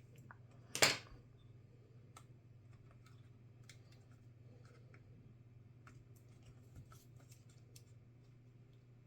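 Small parts and tools handled on a work surface: light scattered clicks and taps, with one louder short scraping rustle about a second in, over a steady low hum.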